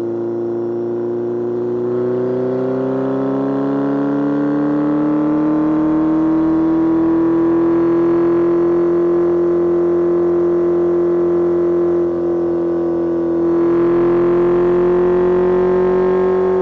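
Kawasaki Z1000's inline-four engine running under way, its pitch rising smoothly as it accelerates over the first few seconds and then holding steady. There is a brief dip in level about twelve seconds in before the engine pulls on.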